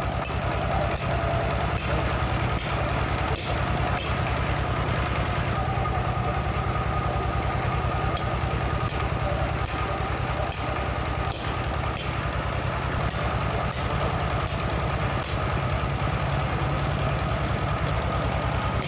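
An engine or motor running steadily with an even low pulse, with faint sharp clicks or taps about once a second.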